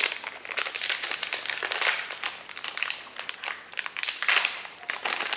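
Friskies Party Mix cat treat pouch crinkling and rustling as it is handled and opened, in irregular bursts with many small crackles, loudest about two seconds in and again past four seconds.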